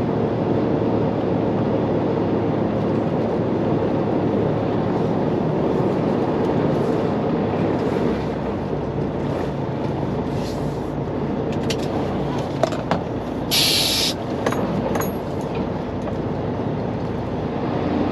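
Semi truck's diesel engine running steadily as the truck rolls over rough, muddy ground, with some rattling and a few clicks. About two-thirds of the way through comes one short, loud burst of air hiss.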